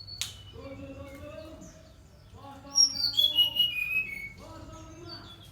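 Brown-chested jungle flycatcher singing a loud, quick phrase of high notes that step down in pitch, lasting about a second and a half near the middle; a sharp click sounds just after the start.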